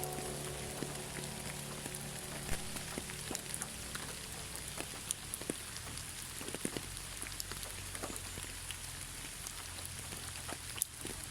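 Steady rain with individual drops landing in scattered, irregular ticks on a surface.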